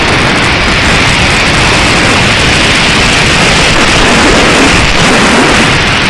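Strong wind buffeting the microphone: a loud, steady rush of noise with a rumbling low end.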